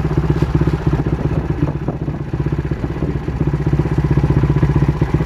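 Honda XR100's single-cylinder four-stroke engine idling through a Yoshimura aftermarket muffler: a steady, rapid, even exhaust beat.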